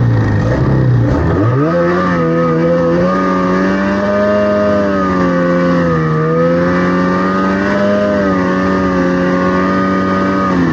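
Snowmobile engine running hard while riding, its pitch dipping and then climbing about a second and a half in, then holding fairly steady with small rises and falls. It cuts off abruptly at the end.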